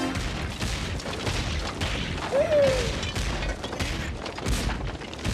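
Cartoon sound effects: a rapid clatter of crashes and bangs over low rumbling, with a short falling squeal about two and a half seconds in.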